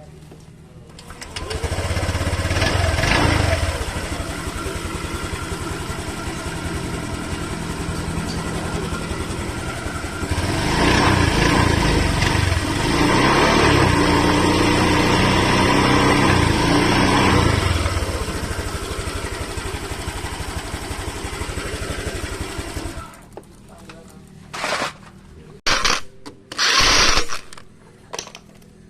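Honda Vario scooter's single-cylinder engine starting, revved briefly, running steadily, revved again and held for several seconds before settling, then shut off; a few short knocks follow near the end.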